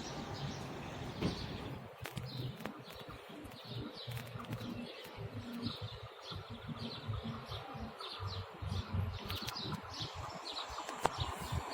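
Small birds chirping: many short, high chirps repeated throughout, over a low, uneven rumble.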